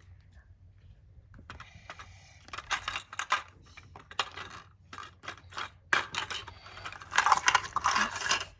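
Small plastic toy pieces being handled and set down, a run of clicks and clatters that grows busier after about two seconds.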